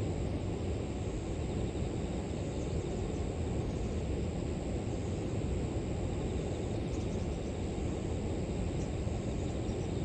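Steady low rush of flowing river water, with a faint, steady high-pitched drone of grass insects behind it.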